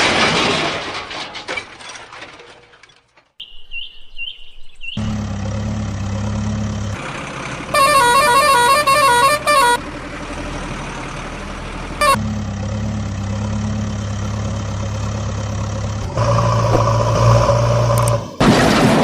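Vehicle engine running steadily, with a horn honking in quick repeated blasts for about two seconds in the middle and a second horn tone near the end.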